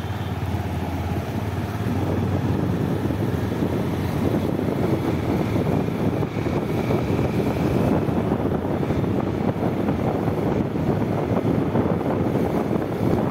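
Motorcycle on the move: engine running at road speed mixed with steady wind rush over the microphone.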